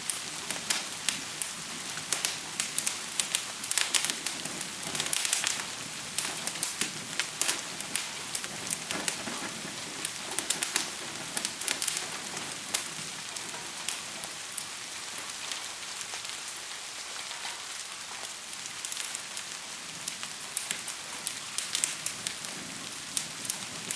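Steady rain hiss with a crackling fire on top, its sharp pops coming in irregular clusters: thick in the first few seconds, sparse through the middle, and picking up again near the end.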